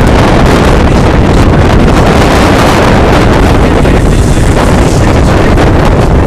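Loud, steady rushing of strong wind blowing across a microphone.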